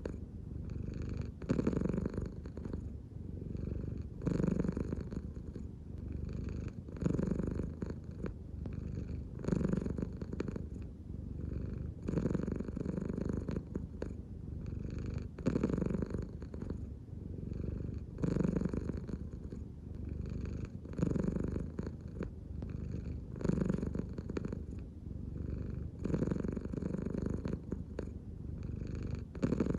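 American Shorthair cat purring steadily, the purr swelling louder about every two and a half to three seconds as the cat breathes in and out with its belly.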